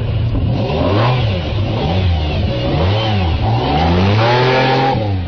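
Car engine revved up and down about four times, the last rev held longer before it drops away near the end.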